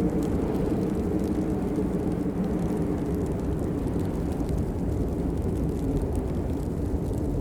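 Steady rain, a dense low-pitched rush with faint scattered ticks of drops on top.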